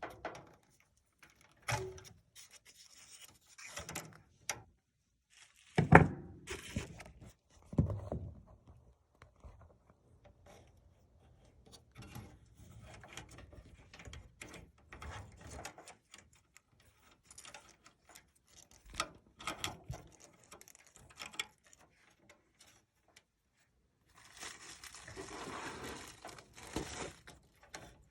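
Handling noise from needle-nose pliers pulling and seating wire connectors on an HVAC control board: scattered small clicks, louder knocks about six and eight seconds in, and a stretch of rubbing near the end.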